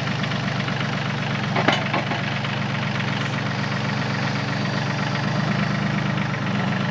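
Yanmar YT235C compact tractor's diesel engine running steadily, with two short knocks about a second and a half to two seconds in.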